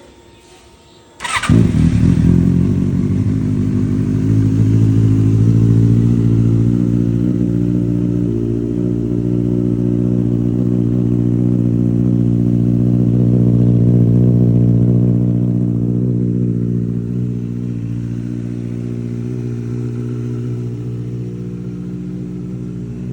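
Motorcycle engine cold-started: a brief crank about a second in, then it catches and runs at a steady high idle, getting a little quieter later on.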